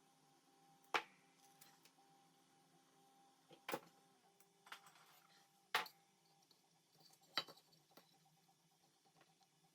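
Four sharp clicks, a second or two apart, plus a lighter one, over a faint steady hum.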